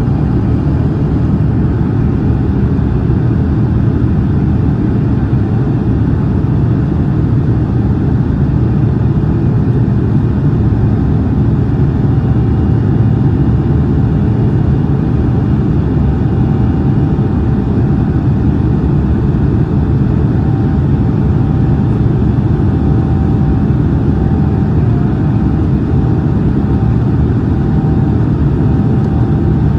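Steady engine and airflow rumble in the cabin of a Boeing 787-9 Dreamliner in flight. A faint steady whine joins about twelve seconds in.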